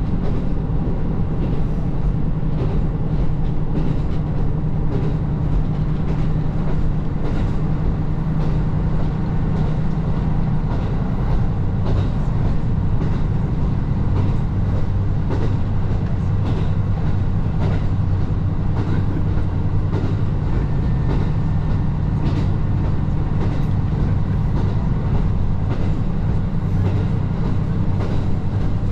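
Diesel railcar running along the line, heard from on board: a steady low drone, with scattered clicks of the wheels over rail joints.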